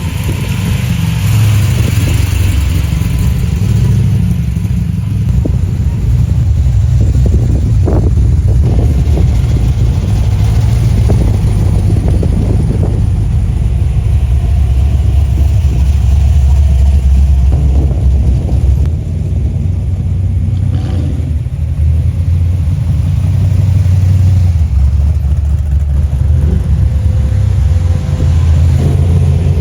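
A car engine running close by with a loud, deep rumble, steady with small swells in level.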